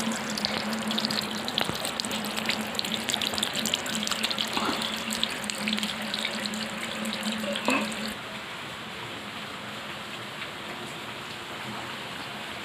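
Rain falling and splashing, a dense crackle of drops with water running, over a steady low hum. About eight seconds in it turns softer and duller and the hum stops.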